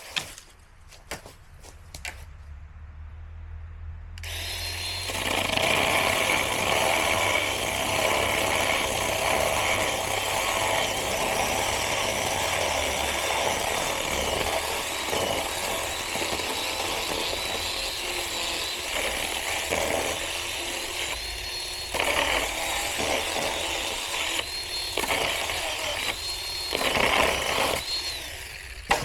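Small electric chainsaw running and cutting through the wood of a fallen tree. It starts about four seconds in, after a few knocks, and keeps going with brief dips in level. A knock comes near the end.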